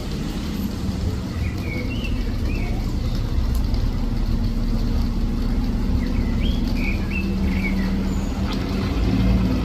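A motor vehicle engine running steadily, with birds chirping in two short spells, about a second and a half in and again past the middle.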